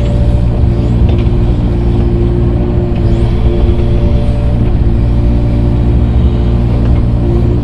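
Engine of an earthmoving machine running steadily at constant speed while grading dirt.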